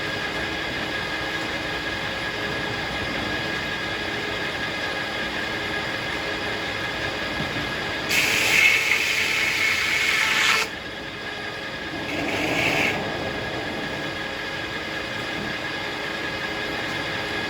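Circular sawmill running steadily with a constant whine. Past the middle comes a louder, harsher stretch of about two and a half seconds that ends abruptly, and a shorter one follows about a second later.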